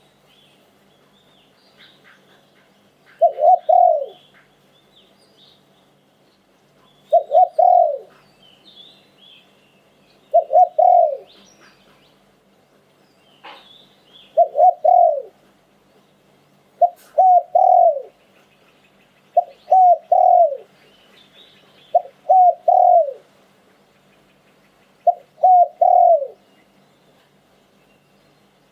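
Spotted dove cooing: eight short phrases of a few deep notes each, about every three to four seconds, each ending in a falling note. Faint high chirps of small birds sound between phrases.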